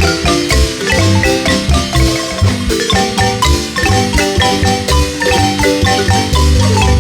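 Marimba ensemble playing a quick, busy melody of struck wooden-bar notes over a steady bass line.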